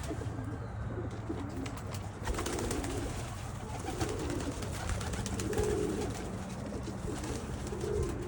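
Pigeons cooing in the loft: low, repeated coos every second or two, with faint scattered clicks from the birds moving about.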